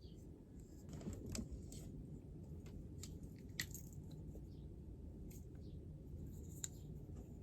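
Scattered light clicks and taps over a steady low hum, with a small cluster about a second in and two sharper clicks, one in the middle and one near the end.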